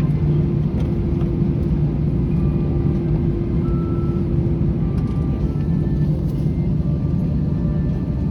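Airliner cabin noise after landing: the engines' steady low rumble with a droning hum. The higher part of the hum drops away about four seconds in.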